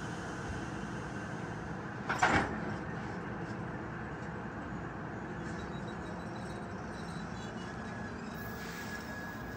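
NJ Transit commuter train running, a steady rumble with one short loud burst about two seconds in. A thin high wheel squeal starts near the end.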